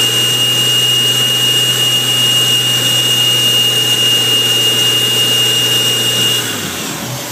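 Supercharged Subaru H6 engine held at a steady raised speed, with a high, steady supercharger whine over the engine note. About six and a half seconds in, the whine cuts out and the engine drops back toward idle.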